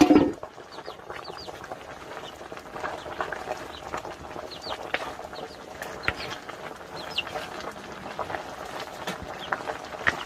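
Birds chirping: many short, high, rising chirps scattered throughout, with one louder, lower-pitched call right at the start.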